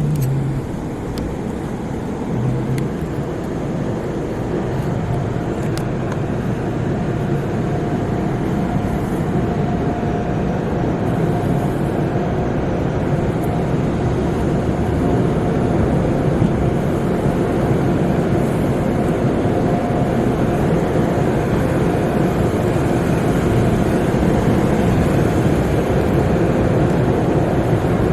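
Sonny's tunnel car wash equipment working over a car: a steady rushing noise of water spray and machinery that slowly grows louder.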